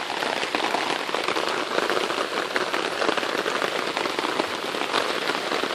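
Rain falling hard on a tarp overhead, heard from beneath it: a dense, steady patter of countless drops.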